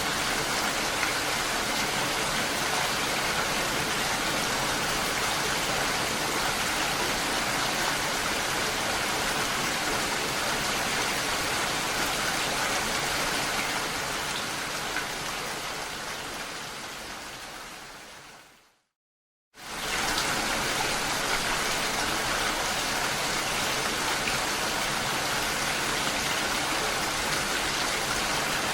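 Steady rain, an even hiss of many drops, that fades away over several seconds about halfway through, stops for about a second, then starts again suddenly at full strength.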